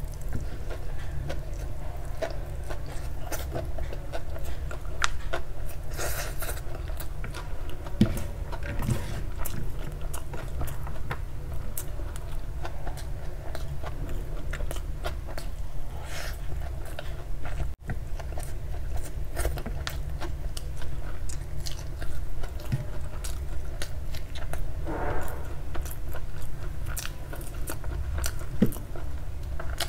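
Close-miked chewing of honey garlic chicken noodles, with many short wet mouth clicks and soft crunches as mouthfuls are bitten and chewed. A steady low hum runs underneath.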